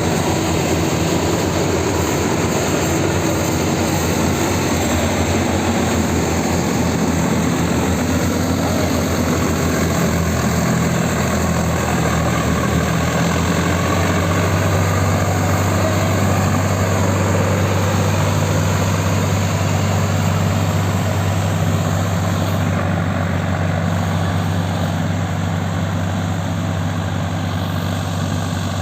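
Tractor diesel engine running steadily. About halfway through, its low note settles and grows stronger.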